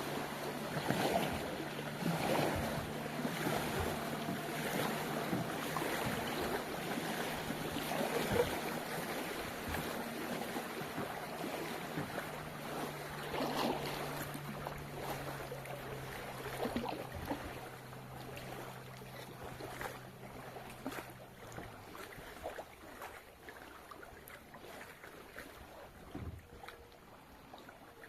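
A kayak's small motor humming steadily over water splashing and lapping against the hull. The hum cuts out about three-quarters of the way through, leaving only the quieter water sounds.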